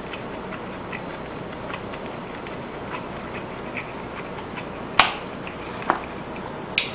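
Close-miked chewing of thick-cut pork belly, which is chewy, with many faint small mouth clicks. About five seconds in come a few sharp clicks, the loudest sounds, as chopsticks and a paper cup are handled.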